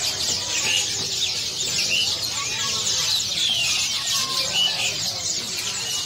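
Chorus of many small caged birds chirping and twittering at once, a dense steady mass of short high calls overlapping one another.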